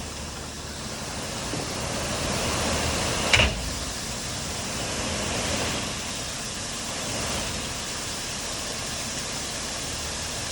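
A big truck unloading a load of material: a rushing, pouring noise that swells and fades over a low rumble, with one sharp bang about three seconds in.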